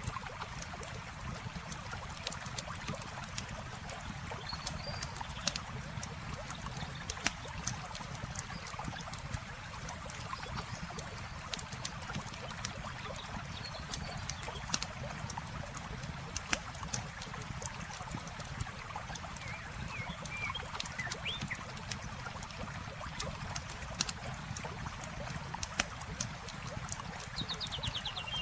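Campfire crackling, with frequent sharp pops and snaps, over the steady rush of flowing water. A few faint, high chirps come through now and then.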